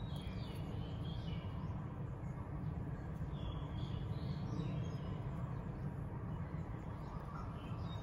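Small birds chirping now and then in short calls over a steady low rumble.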